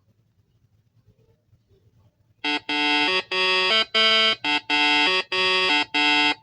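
Near silence, then about two and a half seconds in a loud, steady-pitched alarm tone sounds in a series of about eight short blasts of uneven length.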